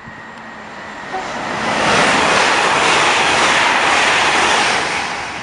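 Express passenger train passing through the station at speed without stopping. Its rush of wheel and air noise swells about two seconds in, holds, and begins to fade near the end.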